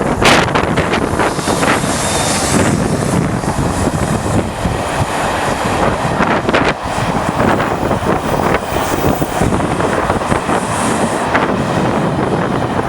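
Wind buffeting the microphone: a loud, uneven rushing noise that comes in gusts, with no speech.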